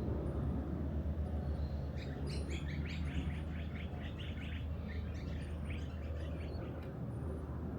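Robotic lawn mower running with a steady low hum. Over it, a bird sings a rapid run of chirps from about two seconds in until shortly before the end.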